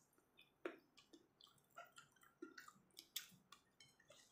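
Faint, irregular wet clicks and smacks of a person chewing a mouthful of food, eaten by hand from a bowl.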